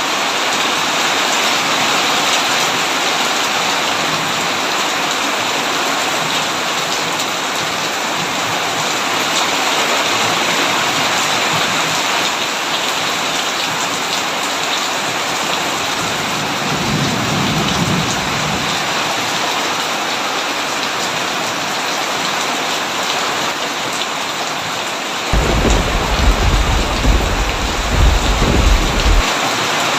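Heavy rain falling steadily on a tin roof. A low roll of thunder comes about halfway through, and a louder, longer rumble of thunder starts a few seconds before the end.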